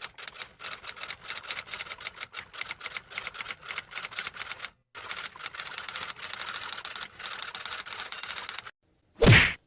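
Typewriter keys clacking in quick, uneven runs, with a brief pause about halfway through. Near the end comes one short, loud burst of a different sound.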